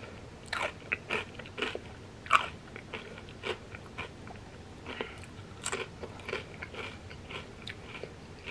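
Close-up crunching and chewing of fried wonton chips eaten with a creamy cheese dip, in irregular crisp crunches, the loudest about two and a half seconds in.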